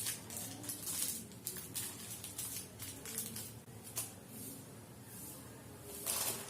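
Plastic snack-packet wrapper rustling and crinkling in the hands as it is opened, with irregular small crackles and clicks.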